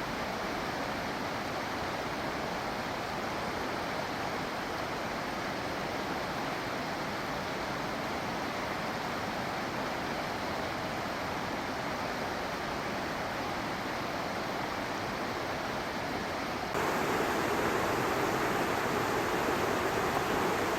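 Fast-flowing river in spate rushing steadily, a high, hard-running flow. It jumps suddenly louder about three quarters of the way through.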